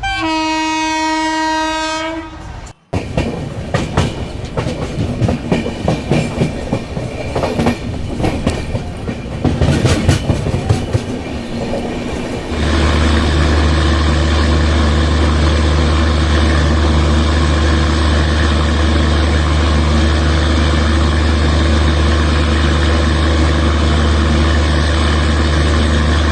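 A train horn sounds one steady chord for about two seconds. Then a train's wheels clatter rhythmically over rail joints for several seconds, giving way about halfway through to a steady low drone that holds to the end.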